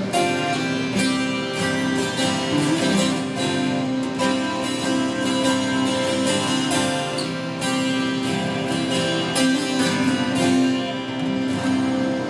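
Acoustic guitar playing an instrumental passage of picked notes and strums, with bright, ringing plucked strings.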